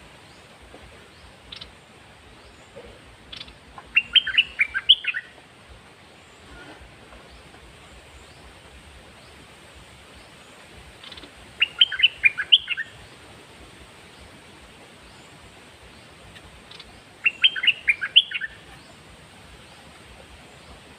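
Red-whiskered bulbul singing: three short phrases of quick, bright whistled notes, about 4 s, 12 s and 18 s in, with a couple of single call notes between them.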